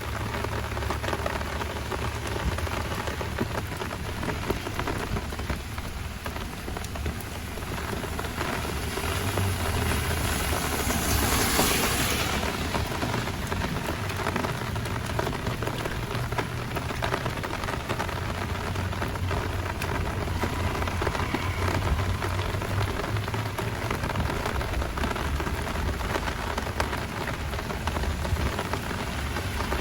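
Heavy rain falling in a steady hiss, with a low rumble underneath. About ten seconds in, the hiss swells louder for a few seconds, then settles back.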